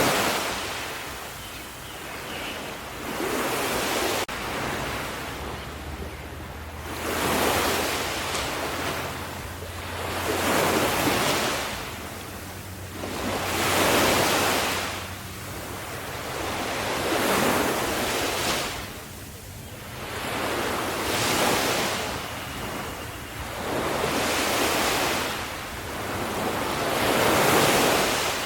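Ocean waves breaking and washing in a steady rhythm, each wave surging up and fading away about every three to four seconds.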